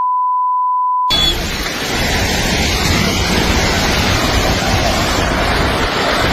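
A censor bleep, one steady pure tone lasting about a second, then loud, steady rushing noise of storm wind and water with wind buffeting the microphone.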